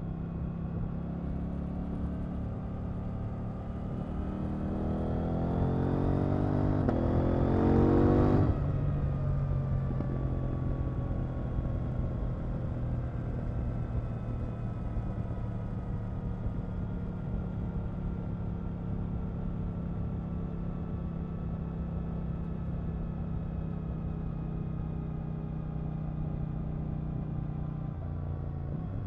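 KTM 890 Duke R's parallel-twin engine running under the rider: revs climb steadily for about four seconds as it accelerates, the throttle is shut abruptly about eight seconds in, and the engine then winds down slowly as the bike rolls off.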